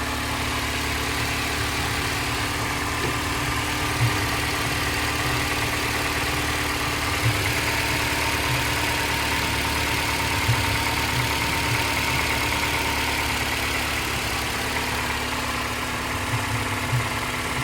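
2010 Ford Escape engine idling steadily, run for a couple of minutes on fresh oil straight after an oil change, before the level is checked.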